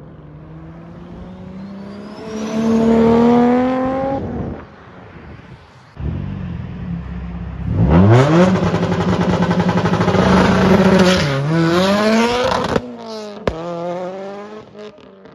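Modified performance car engine accelerating hard in two loud pulls, its pitch climbing each time, with a quick drop and climb again during the second pull like a gear change; it cuts off suddenly, followed by a sharp pop and a quieter engine.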